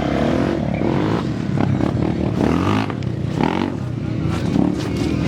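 Trail motorcycle engines revved in neutral, the pitch rising and falling in several quick blips over a steady running note.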